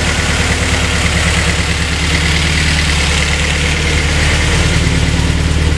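Honda S2000's four-cylinder engine idling steadily on one of its first runs after a rebuild with a new intake manifold, still cold and, to the owner, running surprisingly lean.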